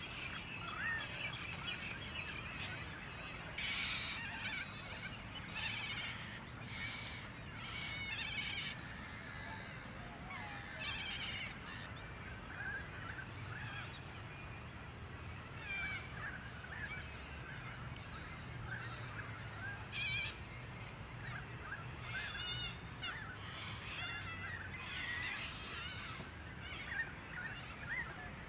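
Birds calling again and again: short, harsh, rapidly pulsing calls, some overlapping, over a steady low background rumble.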